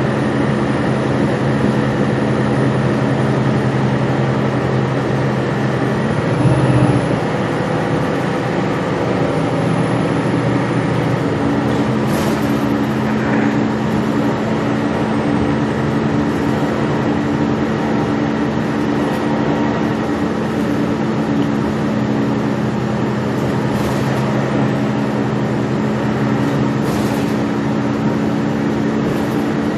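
Gillig Low Floor transit bus heard from on board while under way: a steady engine and drivetrain hum with road noise, its pitch shifting about six or seven seconds in. A faint high wavering whine runs through the first half, and a few short rattles come later.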